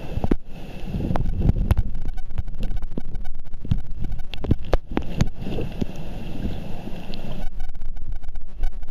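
Water sloshing and splashing right against the microphone, with many irregular sharp splashes and knocks over a low wind rumble.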